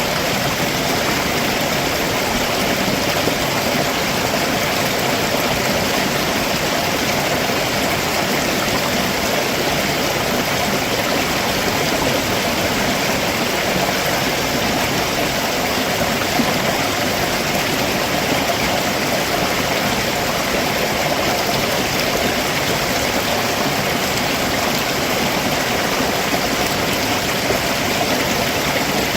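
Stream water rushing over rocks below a waterfall, a steady, unbroken wash of sound.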